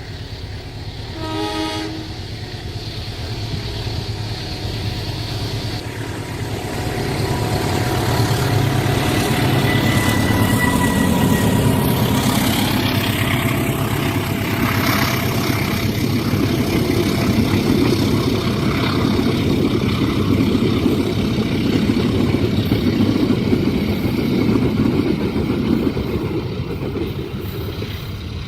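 A train horn gives one short blast about a second in. Then a train approaches and passes, with a low rumble of engine and wheels on the rails that grows loud from about six seconds in and stays steady.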